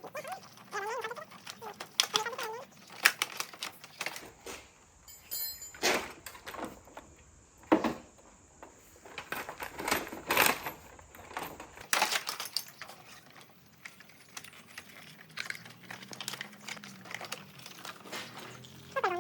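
Irregular clicks and clanks of hand tools and metal parts being handled during motorcycle frame repair, with no steady rhythm.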